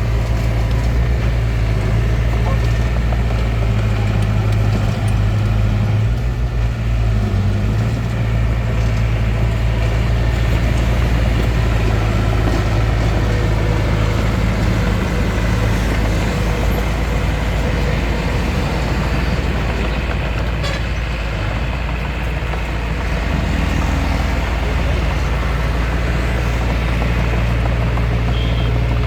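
Hitachi DX45M bulldozer's diesel engine running steadily as it works, a continuous deep drone that eases slightly about three-quarters of the way through.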